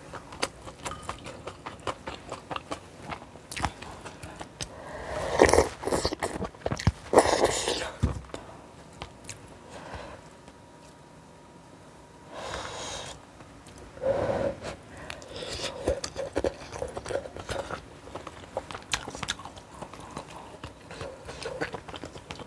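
A person chewing food close to the microphone, with many small wet clicks and smacks. A few louder, longer sounds come about five to eight seconds in and again around thirteen to fifteen seconds in, with a quieter stretch between them.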